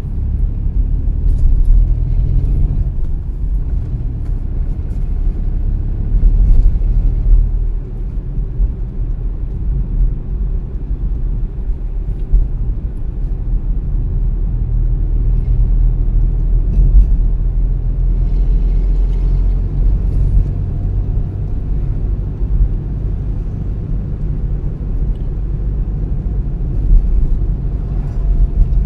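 A car driving: steady low rumble of engine and tyres on the road, swelling and easing a little with speed.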